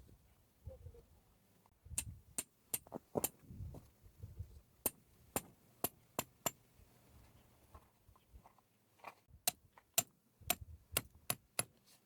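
A run of sharp clicks and light knocks of hard objects, a few a second, with soft thuds between; it pauses in the middle and then starts again.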